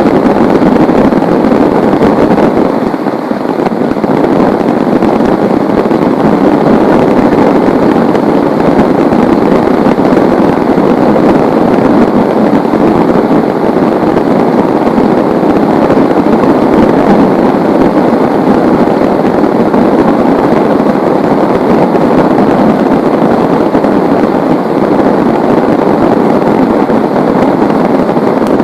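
Heavy rain pouring steadily, a dense, even hiss that dips slightly about three seconds in.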